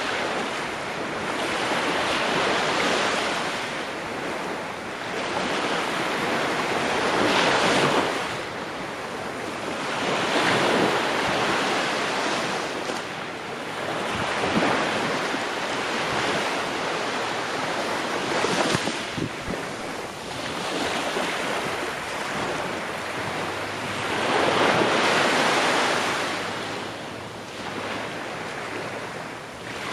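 Sea waves breaking on a shore, each wash swelling and fading every three to five seconds.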